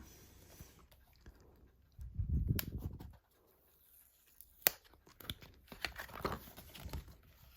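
Handling noise from a Blu-ray steelbook in its paper J-slip being turned over: a low rubbing rumble about two seconds in, two sharp clicks, then lighter rustling and rubbing.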